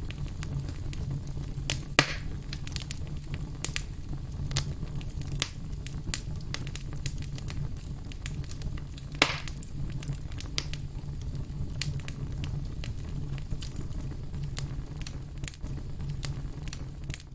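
Firewood logs burning and crackling: a continual patter of small snaps over a steady low rumble, with two louder pops, about two seconds in and a little after nine seconds.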